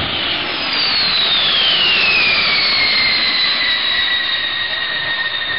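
B-52 bomber's eight TF33 turbofan engines as the bomber flies past: a loud, steady jet roar with a high whine that falls in pitch over the first two seconds or so, then holds steady.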